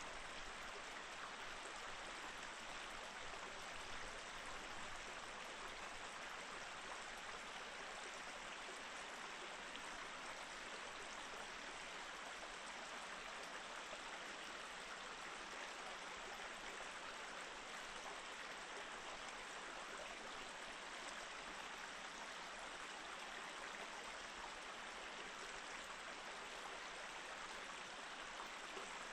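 Mountain stream flowing steadily over rocks, an even rushing and gurgling of water.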